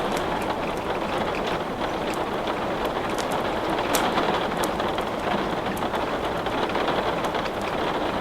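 Steady rain, with scattered sharp clicks through it and one louder click about four seconds in.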